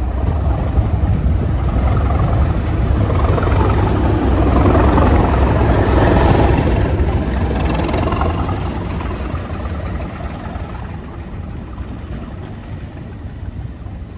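A train passing at speed: a heavy low rumble with a rushing noise that swells to its loudest about five to eight seconds in, then fades as the train moves away.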